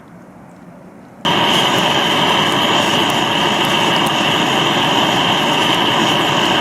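Gas torch switched on about a second in, then blasting steadily with a loud, even rush, its flame being used to light the campfire wood.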